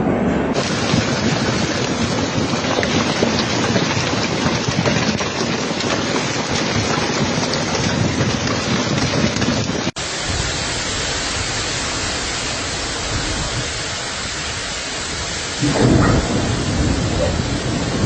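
Heavy rain pouring down in a steady dense hiss. It cuts off abruptly about halfway and resumes as a second stretch of rain, with a short, loud low rumble a couple of seconds before the end.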